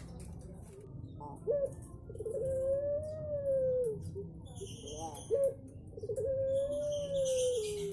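A puter pelung dove (a domestic Barbary dove) cooing: twice, a short clipped note followed by a long drawn-out coo that swells slightly and sinks at its end. Small birds chirp faintly in the background during the second coo.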